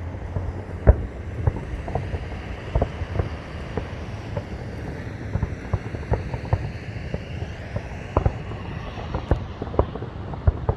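Distant fireworks going off in an irregular rapid series of booms and cracks, several a second. Steady traffic noise and wind run underneath.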